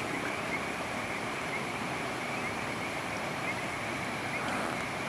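Steady rain falling, an even hiss without a break, with a continuous high chirring just above it.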